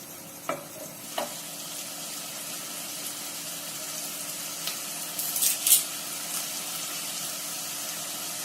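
Shallots and garlic-ginger paste sizzling steadily in hot oil in a pan. There are a few sharp clicks early on and a louder cluster of clicks about five and a half seconds in.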